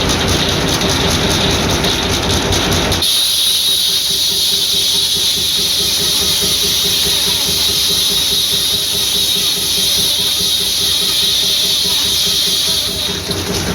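Circular sawmill driven by a 1938 Beijer hot-bulb engine. A regular beat runs underneath throughout. About three seconds in, the sound switches abruptly to a steady high hissing whine of the blade cutting through a log, which ends about ten seconds later.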